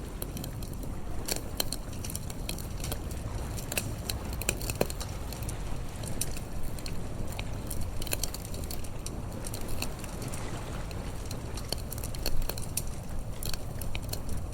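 Bonfire crackling, with frequent irregular snaps and pops from the burning wood over a low steady rumble.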